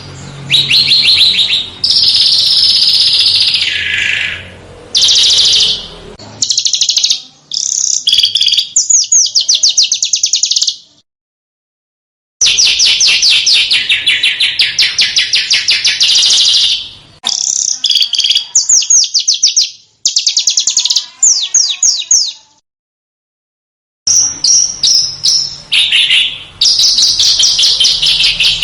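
Small songbirds singing fast, high-pitched trills and sharp chattering phrases in short loud bursts, from a recording used to tutor caged songbirds. The song cuts out completely twice, for over a second each time.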